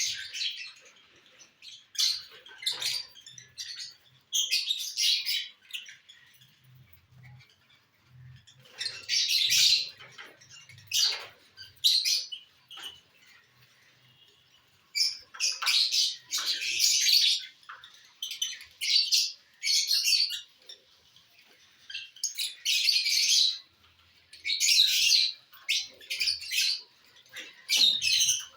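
Pet lovebirds chirping in repeated high-pitched bursts, each lasting about a second, with short pauses between.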